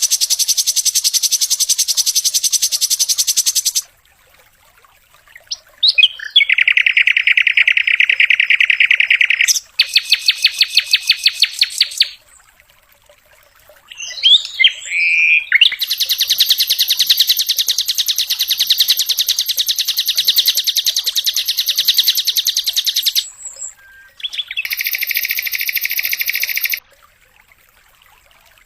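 Sikatan londo singing: very rapid, high-pitched trilled bursts (the 'tembakan' or 'dor' song prized by Indonesian bird keepers), delivered in several bouts a few seconds long with short pauses between them, the longest about seven seconds.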